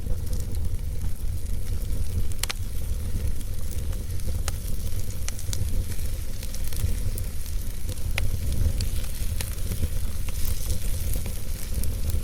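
Wood fire burning in a fireplace: a steady low rumble and hiss with scattered sharp crackles and pops from the logs.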